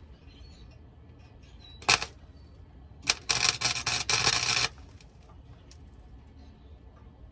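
Welding arc on an exhaust pipe: a brief strike about two seconds in, then a sustained crackling weld bead of about a second and a half.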